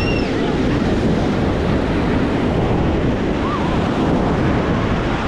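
Ocean surf washing onto the beach, a steady rush, with wind buffeting the microphone. A brief high chirp sounds right at the start.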